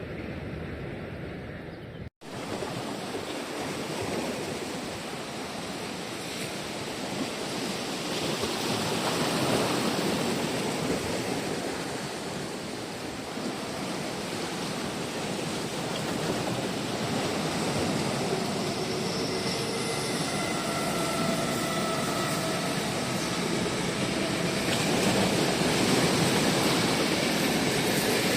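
A train running along the line: a steady rushing noise that swells twice, with faint whining tones in the last several seconds. The sound breaks off briefly about two seconds in.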